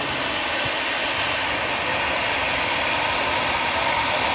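Jet airliner's engines running, a steady rushing noise that grows slightly louder.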